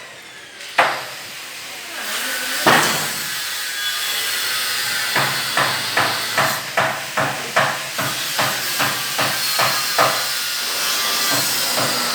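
Hammer blows: two separate strikes, then from about five seconds in a steady run of about two to three blows a second, over a constant hiss.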